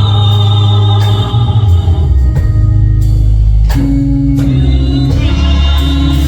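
Live gospel music: voices singing over a band with sustained bass and regular drum beats.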